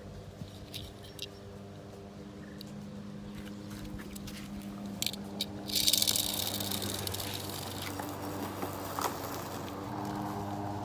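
Toy die-cast cars rolling on plastic track: scattered clicks, then a loud hissing rattle that starts suddenly about six seconds in and slowly fades, over a steady low hum.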